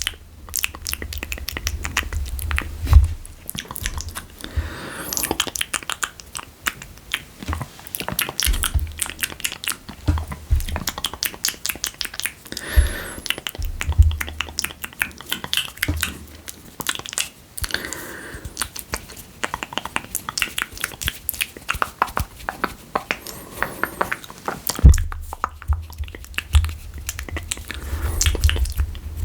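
Close-miked ASMR wet mouth sounds for spit painting: a dense run of moist clicks and smacks. Low thumps come in near the start, in the middle and again near the end.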